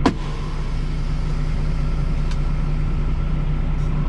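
Semi truck's diesel engine idling steadily, with one sharp click right at the start.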